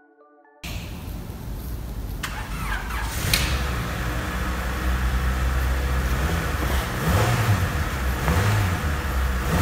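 Honda Civic Type R EK9's B16B four-cylinder engine running, starting abruptly and blipped a few times with short rises in pitch in the second half.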